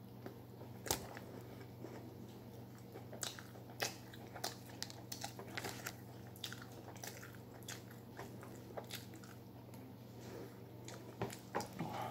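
A man chewing and biting into a Whopper burger close to the microphone: irregular wet mouth clicks and smacks, thickest near the end as he takes another bite.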